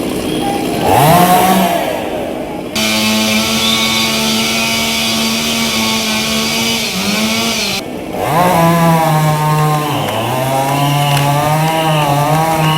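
Small engine revving up about a second in and held at high, steady revs for several seconds. It drops off briefly near 8 s, then revs up and holds high again.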